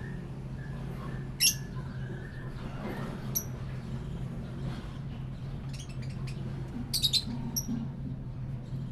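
Small caged parrots giving a few short, sharp chirps and squawks, the loudest about a second and a half in and a quick cluster around seven seconds in, over a steady low hum.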